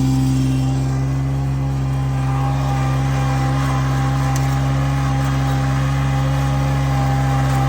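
John Deere 430's three-cylinder diesel engine running steadily at a constant speed.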